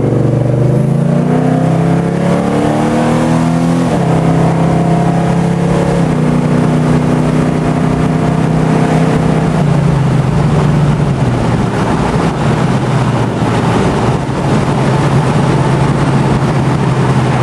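Chevrolet C10 pickup's 4.3-litre V6 pulling through the gears on a drive. Engine pitch climbs, drops suddenly at two upshifts about 4 and 6 seconds in, then holds steady as it cruises, with road and wind noise growing in the second half. No belt squeal is heard on its new belts.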